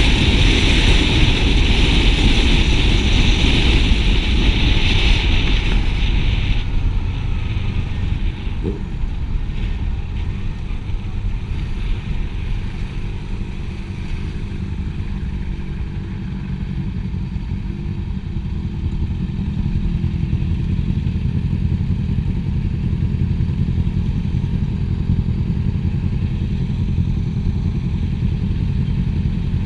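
Motorcycle on the move, its engine running steadily under continuous low rumble and road noise. A high steady hiss over it stops about six seconds in.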